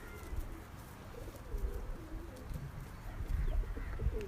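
Domestic pigeons cooing, several soft low coos overlapping one after another.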